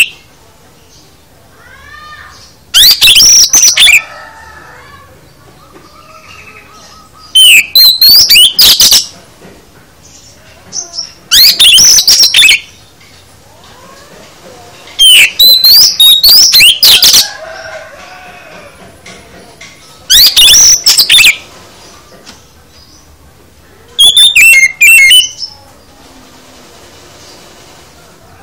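Oriental magpie-robin (kacer) singing loud, varied phrases of quick rising and falling whistles about every four seconds. Each phrase lasts one to two seconds, with quieter chirps between.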